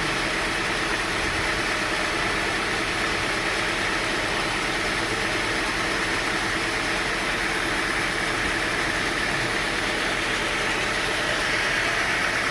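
Sawmill machinery running steadily: an engine-driven mill giving an even, unchanging mechanical drone.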